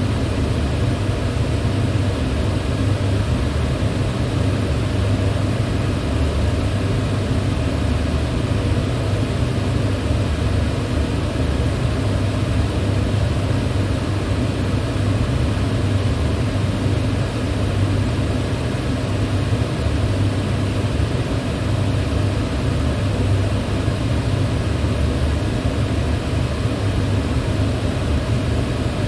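Electric fan running steadily: a low hum under an even rush of air, with no change in speed.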